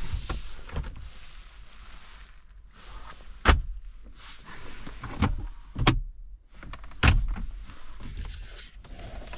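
Handling around a car: several sharp thuds and clicks, the loudest about three and a half, six and seven seconds in, between stretches of rustling.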